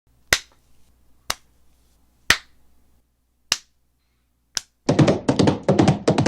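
Five sharp clicks or knocks about a second apart, then a rapid clattering rattle for about a second and a half.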